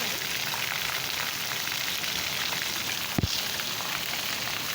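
Heavy rain falling with a steady, even hiss. About three seconds in there is a single short thump.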